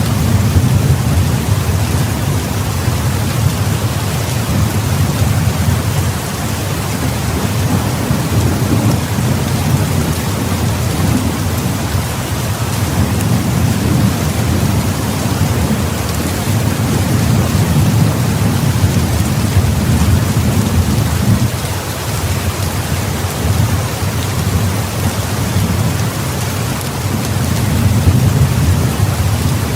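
Heavy rain falling steadily, with low thunder rumbling underneath that swells and eases every few seconds.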